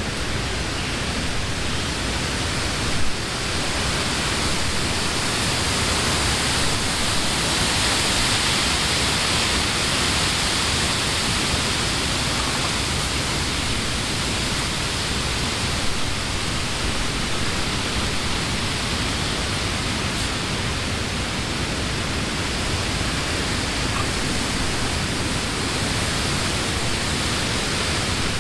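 Wind blowing through the leaves of trees: a steady rushing that swells a little for a few seconds in the first half, with one brief louder bump about three seconds in.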